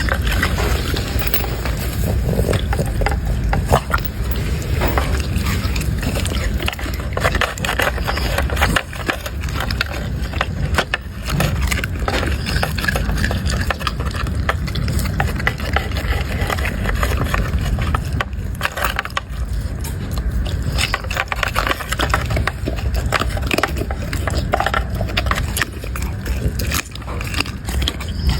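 A dog chewing and crunching food, with many irregular crackling bites over a steady low rumble.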